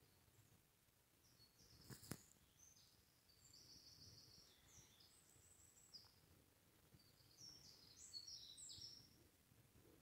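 Faint songbird song: several short, high-pitched chirping phrases, the busiest stretch near the end. A single sharp click about two seconds in stands out above it.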